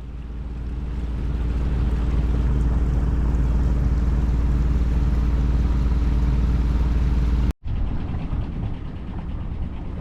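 A boat engine running steadily with a loud, low, even drone. About seven and a half seconds in it breaks off abruptly and resumes as a rougher, noisier engine sound.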